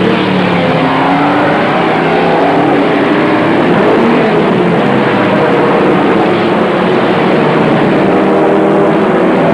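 Several racing cars' engines running at high revs together as the field pulls away, with engine pitch rising near the start and many pitches overlapping.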